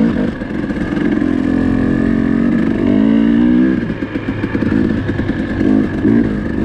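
Four-stroke dirt bike engine running under way, its revs rising and falling, climbing around three seconds in and again near six seconds.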